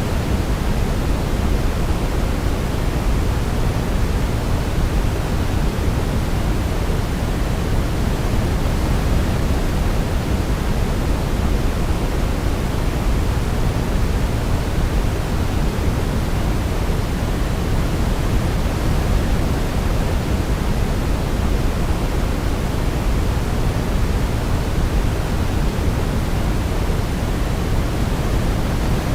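Baby-sleep white noise: a steady, even hiss, heavier in the low end like pink noise, with no change from start to end.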